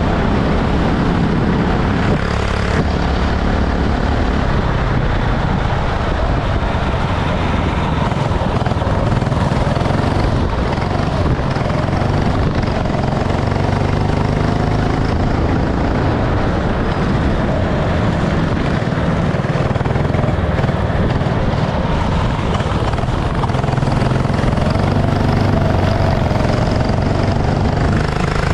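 Go-kart engine running at racing speed, its pitch rising and falling as it accelerates and lifts off, under a loud steady rushing noise with a heavy low rumble.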